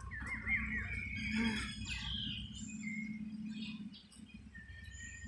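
Birds chirping and calling: a quick run of looping chirps near the start, then scattered short whistled notes, over a low background rumble.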